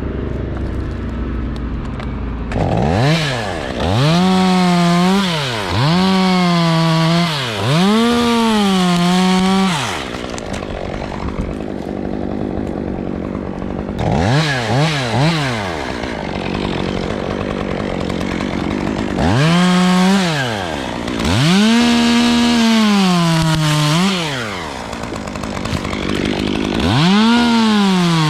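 Two-stroke chainsaw revving up to full speed and dropping back again and again, each burst held for a second or two while it cuts into pine, with three quick blips of the throttle about halfway through.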